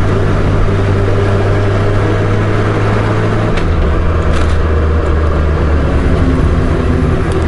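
Honda GL1500 Gold Wing's flat-six engine running under way, with wind and road noise, heard from on board. The engine note steps down to a lower pitch about halfway through as the revs drop.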